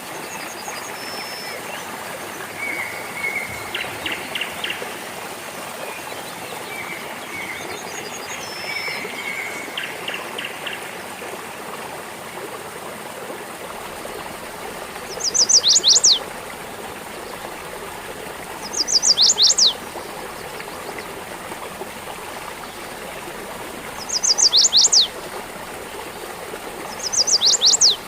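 A small stream trickling and gurgling steadily, with birds singing over it: softer chirps in the first half, then four loud phrases of quick falling whistles a few seconds apart in the second half.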